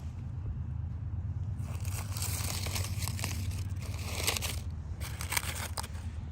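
Crinkling and crunching from about a second and a half in until near the end, many small crackles close together, over a steady low rumble.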